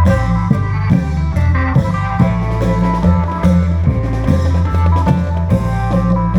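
Isan folk music from a klong yao long-drum band: drums beat a steady rhythm under a pitched melody and a deep, held bass line.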